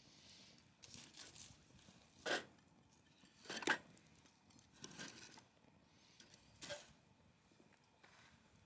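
Wood fire crackling in a folding fire pit: scattered crackles and pops, the loudest a little before the middle.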